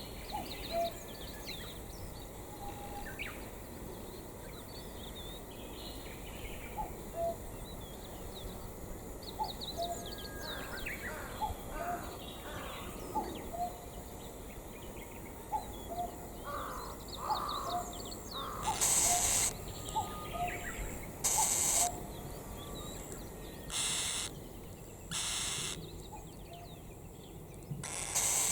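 Birds calling over a steady rushing background. There are many short calls through the first part, and in the last third several loud, harsh calls sound about two seconds apart, the kind a crow makes when cawing.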